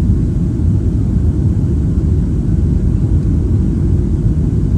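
Airplane cabin noise in flight: a steady, low rumble of engine and airflow noise heard from inside the passenger cabin.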